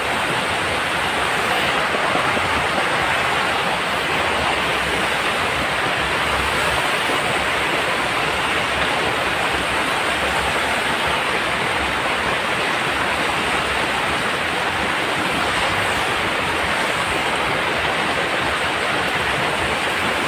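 Steady rain falling, a loud, even hiss with no breaks.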